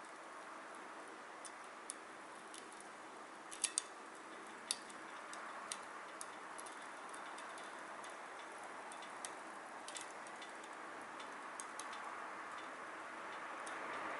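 Wood fire burning in a Solo Stove Titan: a steady rushing hiss with scattered sharp crackles and pops, the loudest few about four seconds in.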